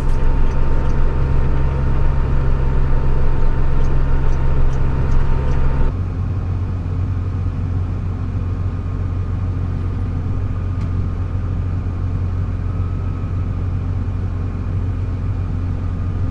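Heavy engine running steadily with a deep drone; about six seconds in it switches abruptly to a different, slightly quieter and lower drone.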